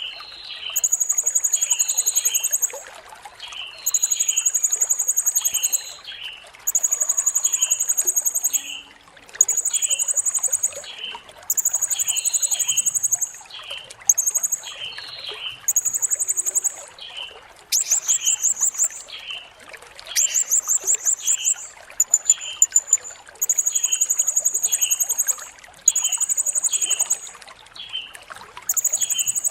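Blue-crowned hanging parrot (serindit) singing: about a dozen very high, rapid trills, each a second or two long and coming every couple of seconds. Short lower chirps fall between them.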